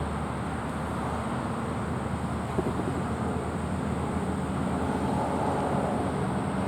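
Steady rumble of motor vehicle traffic, with no distinct events.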